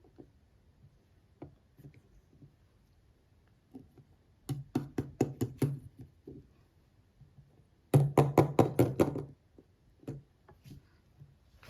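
Light knocking and tapping on small hard objects from the toy set or its packaging: a few scattered taps, then two quick runs of about eight taps each, the second louder, about halfway and about two-thirds of the way through.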